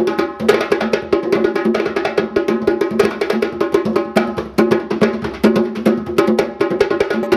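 Fast, dense percussion music: many quick strikes over steady pitched notes, played without a break.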